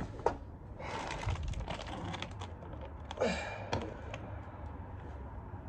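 A plastic bag around a leaking food package is handled and pulled open: a run of crinkling rustles and small clicks, with a louder burst a little over three seconds in, then only faint background.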